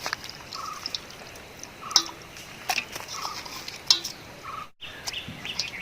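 A bird calling in short repeated notes, roughly three every two seconds, over the clicks and knocks of hands rubbing masala into quail pieces in a bowl.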